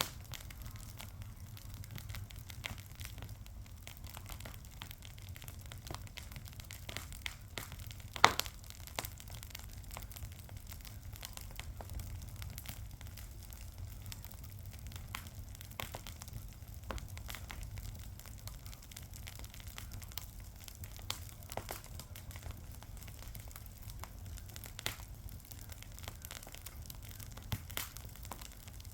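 Fire crackling: a steady run of small snaps and pops over a low rumble, with one sharp, louder pop about eight seconds in.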